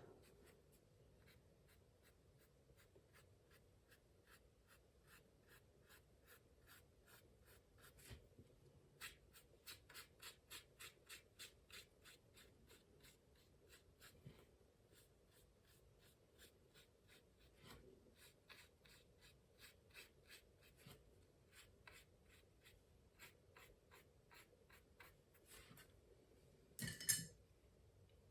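Faint dabbing of a watercolour brush on paper, laying in short petal strokes at about three a second. There is one brief louder rustle near the end.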